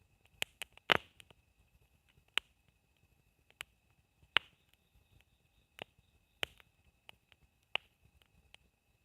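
Wood campfire crackling, with irregular sharp pops and snaps, the loudest about a second in and just before halfway.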